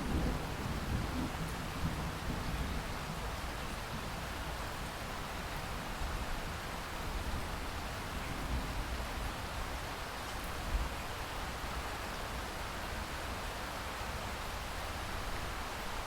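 Steady rain falling, an even hiss of many drops, with a low rumble of thunder dying away in the first few seconds.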